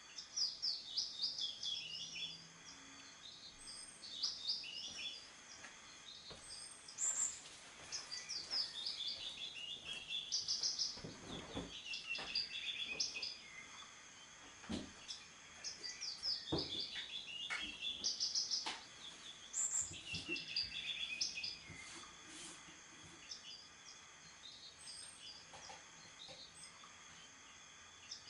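A songbird singing: repeated short phrases of quick, high, falling chirps every few seconds, thinning out after about twenty seconds, over a faint steady high hum.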